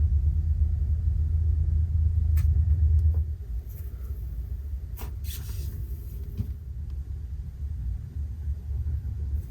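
Dense cloud icy slime being squished and worked by hand: a low muffled rumble, loudest for the first three seconds, with a couple of sharp pops about two and a half and five seconds in.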